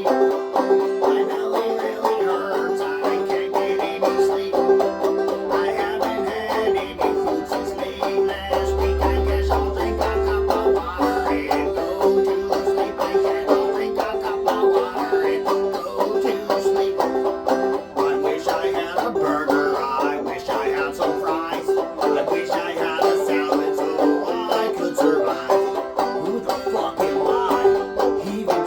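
A band playing a song on plucked string instruments, over one steady held note. A brief low boom comes about nine seconds in.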